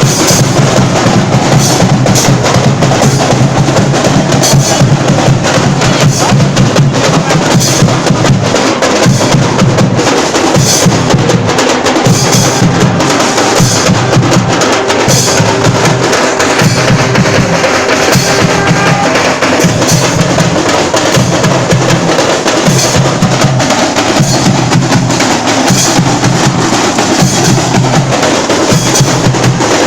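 Loud, fast drumming with sharp clacking percussion, keeping up an unbroken rhythm.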